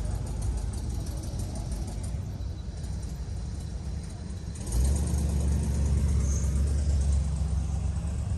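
Car engine running with a low rumble, which gets suddenly louder a little under five seconds in.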